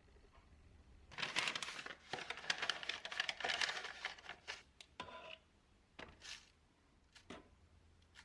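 Crinkling, rustling handling noise for about four seconds starting a second in, followed by a few light clicks.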